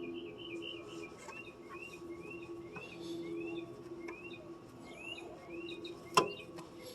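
A bird calling in a repeated series of short rising-and-falling chirps, about two a second, over a steady low hum. A single sharp click, like a tool knocking on metal, sounds near the end.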